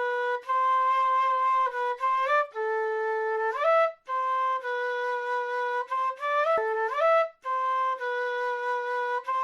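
South American flute playing a slow melody of long held notes, each phrase ending in a quick rising run of notes, with short breath pauses between phrases.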